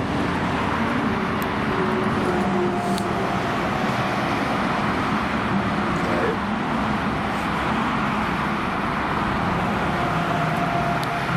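Steady road noise of vehicles travelling on a motorway: a constant rush of tyres and wind with a low engine hum underneath.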